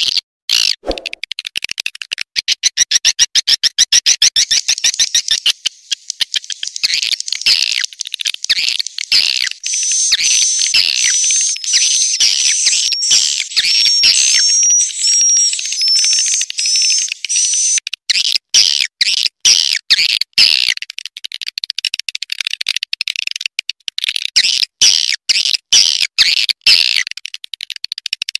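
Recorded edible-nest swiftlet calls, used as a lure track to draw swiftlets into a swiftlet house: a dense, rapid chattering of high chirps and clicks. Through the middle stretch it carries a run of clear, high whistled notes, and then returns to the chattering.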